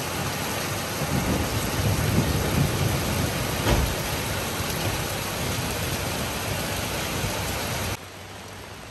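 Heavy rain pouring down, with a low rumble in the first few seconds and a single sharp thud about halfway through. The level drops abruptly near the end.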